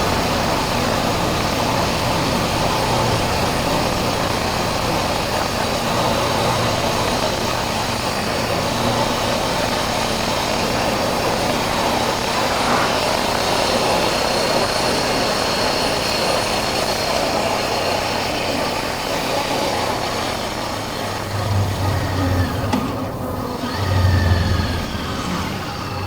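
Honda CB400X's parallel-twin engine running under way, with steady wind and road noise rushing over the rider's chest-mounted microphone. Near the end the engine note swells twice in deeper pulses, then the level starts to fall.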